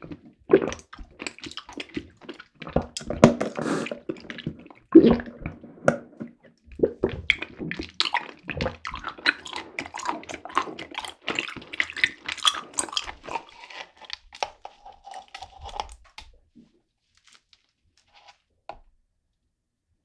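Close-miked wet chewing of chewy tapioca pearls from bubble tea: squishy smacks and clicks that stop about three-quarters of the way in.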